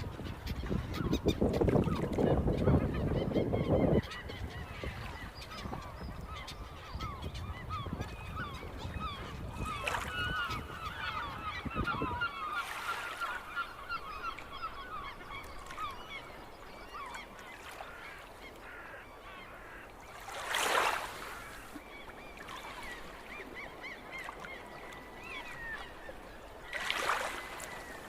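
A flock of seagulls calling, many short overlapping cries throughout. A loud low rumble covers the first few seconds, and two short, louder noisy bursts stand out later on.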